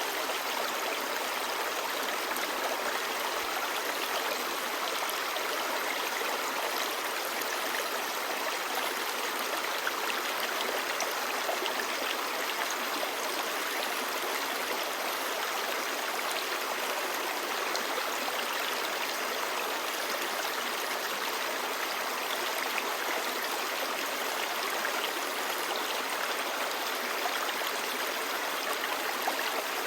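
Clear mountain stream babbling over rocks, a steady, even rush of water with no changes.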